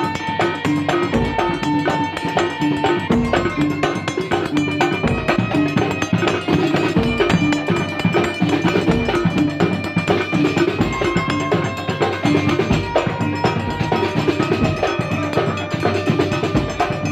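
Kuntulan ensemble playing: dense hand-drum percussion with low bass-drum strokes every second or two, under ringing pitched metal tones.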